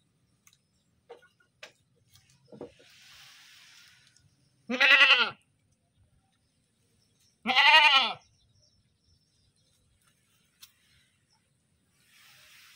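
Goat bleating twice: two loud, wavering calls of under a second each, about two and a half seconds apart, with a soft hiss shortly before the first.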